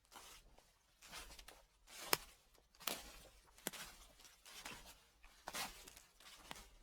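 Footsteps crunching through fallen leaves at a slow, even walk: about eight steps, each a rustling crackle with sharp snaps.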